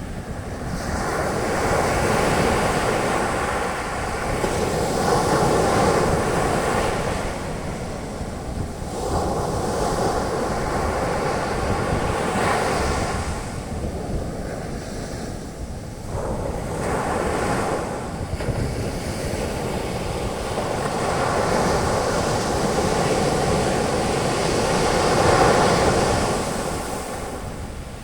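Ocean waves breaking on a beach, their foam washing up the sand with a rushing hiss that swells and fades in long surges.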